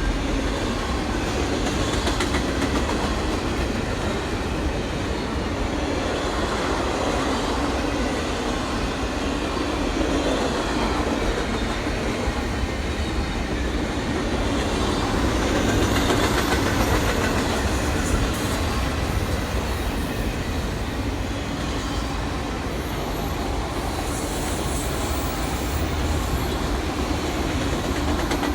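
Railroad cars rolling past, a steady rumble and rattle of steel wheels on the rails, with a faint high wheel squeal about halfway through and again near the end.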